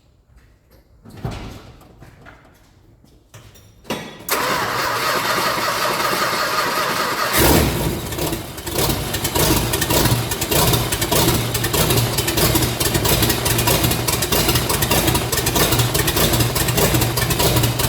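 Mopar engine with open exhaust and no mufflers firing up about four seconds in, catching fully a few seconds later, then running loud and steady at idle.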